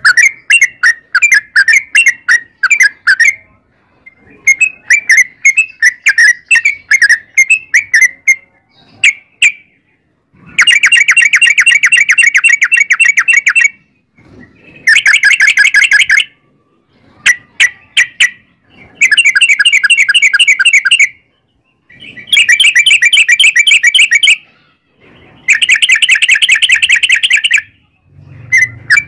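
Yellow-vented bulbul song: loud chattering, whistled notes for the first third, then five long, rapid rolling trills, each lasting a couple of seconds, with short pauses between them.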